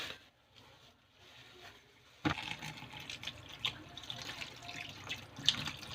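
Water running from a tap into a sink, switched on suddenly about two seconds in, with small clicks and knocks over the running water.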